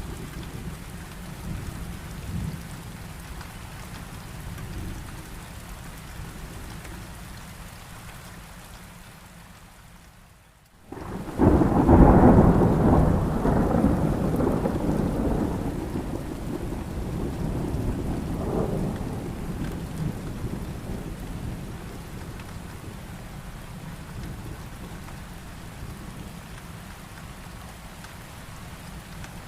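Heavy rain falling steadily through a thunderstorm. About a third of the way in, the sound dips almost to nothing for a moment, then a loud clap of thunder breaks and rumbles away over several seconds, swelling once more before fading back under the rain.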